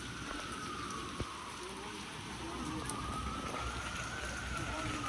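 Rain falling on wet pavement, a steady hiss. Over it, a single high tone slowly rises and falls in pitch twice, like a siren's wail.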